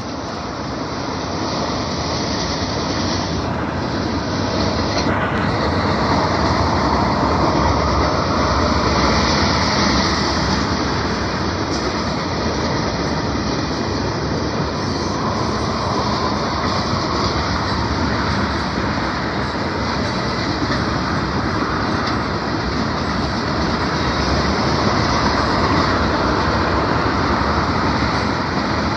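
A train rolling past at close range: a steady, loud rush and rumble of wheels on rails, growing louder over the first several seconds as it draws near, then holding.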